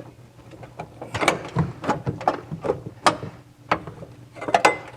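Irregular metal clinks and knocks as an intake manifold is worked loose and pulled off an air-cooled VW flat-four engine.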